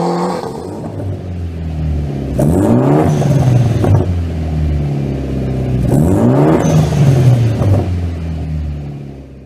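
Four-cylinder car engine and exhaust revving: the pitch climbs twice, about two and a half and six seconds in, settling back between. It fades out at the very end.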